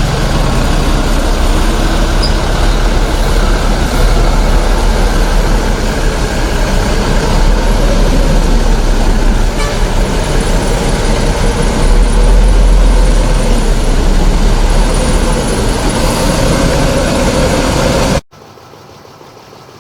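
Loaded trucks on the move: loud, steady engine and road noise with a heavy low rumble. It cuts off suddenly near the end to a much quieter background.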